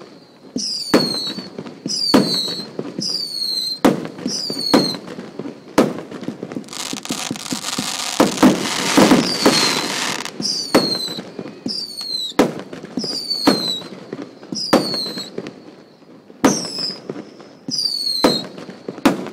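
Fireworks going off in a steady series of sharp bangs about once a second, each followed by a short high tone that falls in pitch. A few seconds in there is a dense spell of crackling and hissing with many pops close together, before the single bangs resume.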